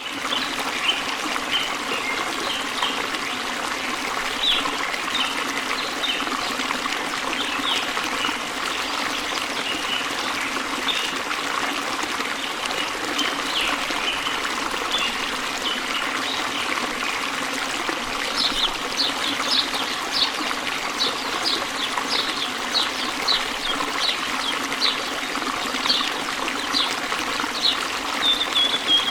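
Water trickling and flowing steadily, with birds chirping throughout. From a little past halfway one bird gives a run of short, sharp calls, about two a second.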